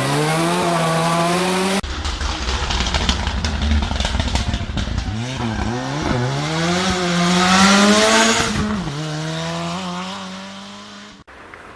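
Ford Sierra Cosworth Group A rally car's turbocharged four-cylinder engine revving hard under full throttle. Its pitch climbs and drops repeatedly through gear changes, then holds steady near the end. The sound jumps abruptly about two seconds in and again just before the end.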